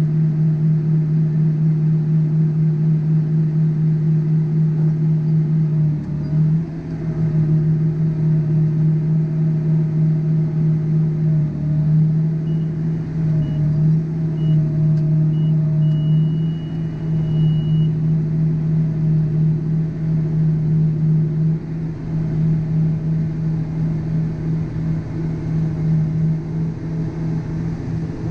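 Heavy farm-vehicle engine running steadily, a loud even drone. About halfway through, a few short electronic warning beeps sound, then one longer beep.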